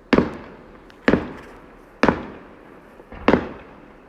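Fireworks exploding overhead: four sharp bangs about a second apart, each trailing off, the last a quick double bang.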